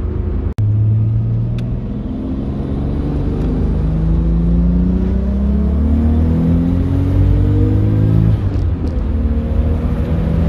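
Nissan RB25DET Neo turbocharged 2.5-litre straight-six at 7 psi of boost on its factory turbo, with a 3-inch dump pipe and exhaust, accelerating hard, heard from inside the car's cabin. Its pitch climbs steadily for about seven seconds, then drops sharply as the driver changes gear at about eight seconds, and it pulls again in the next gear. The sound cuts out briefly about half a second in.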